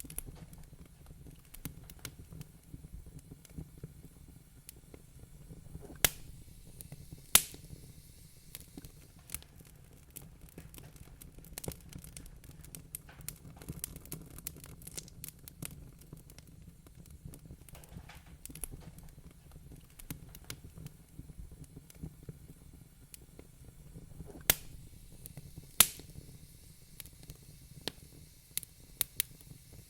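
Wood fire crackling in a fireplace: frequent small snaps and ticks with a few louder pops, over a low steady rumble.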